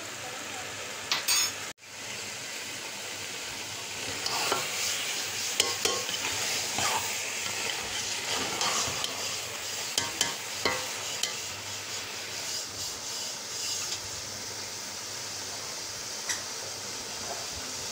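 Grated-carrot halwa sizzling in ghee in a pot while a spatula stirs and scrapes it in irregular strokes. This is the roasting stage, after the water has fully cooked off. There are a couple of sharp clicks about a second in.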